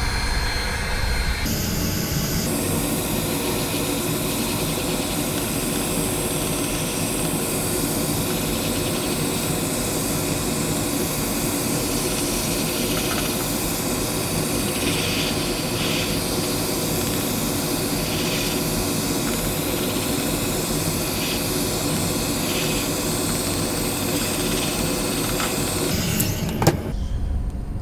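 Handheld heat gun blowing hot air steadily, melting loose frayed bits of plastic fairing back down. It switches on about a second and a half in and cuts off with a click near the end.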